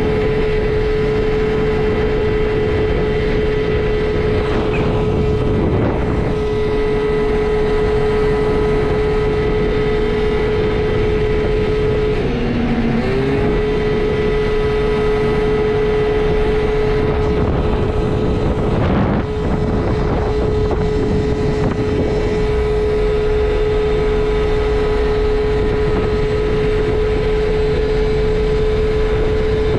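Two-stroke 50 cc engine of a Piaggio Vespa LX 50 scooter with a Yasuni Z sport exhaust, running at a steady, high, even pitch under way. The note drops for a moment about twelve seconds in, then picks straight back up.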